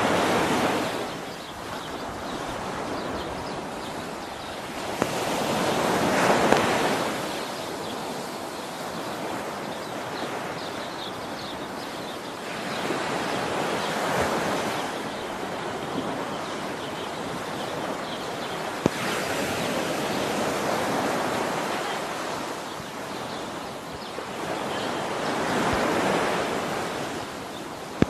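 Steady rush of falling water from a waterfall, with a hiss that swells and fades about every six to seven seconds.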